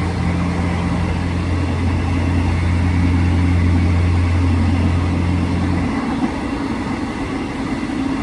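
Passenger train running: a steady low hum over a constant rumble, the hum dropping away about six seconds in while the rumble goes on.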